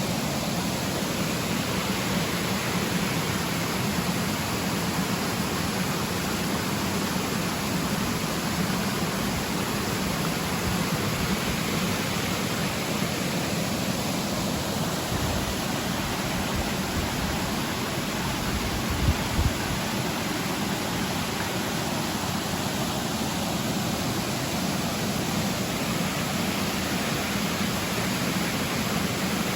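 Steady rushing of river water, an even noise throughout, with a few low thumps past the middle.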